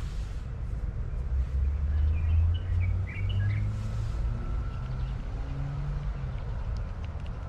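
A steady low rumble with a bird chirping several times about two to three and a half seconds in.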